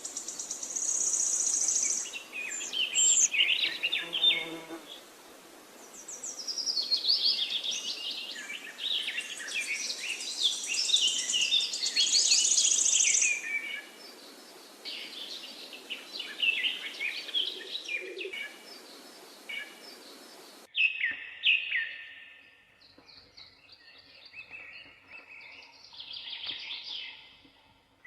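Several songbirds singing and chirping, with quick trills and repeated high notes over a steady background hiss. About 20 seconds in, the hiss cuts off abruptly and the song turns quieter and sparser.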